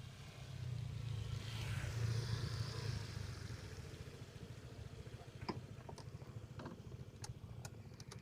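Motor vehicle engine running low, swelling to its loudest about two seconds in with some hiss and then easing off, followed by a few scattered clicks and knocks near the end.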